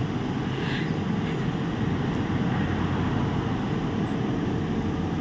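Steady hum and rush of air from a running fan motor.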